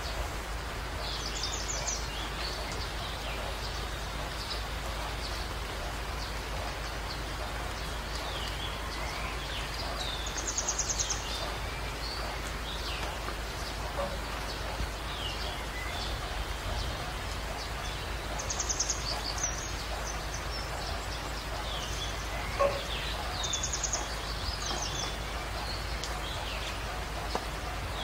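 Birds chirping over a steady hiss and low hum, with four short, fast, high trills spread through and one sharp click about two-thirds of the way in.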